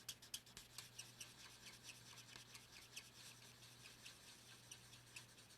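Faint scratching of an alcohol-marker tip rubbed over cardstock in quick, repeated circular strokes, laying down ink to colour a stamped image.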